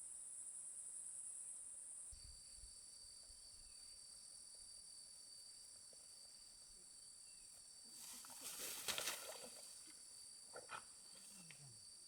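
Night insects, crickets or similar, chirring steadily in several high tones. About eight seconds in comes a brief rustle or scrape, the loudest sound, and two shorter noises follow near the end.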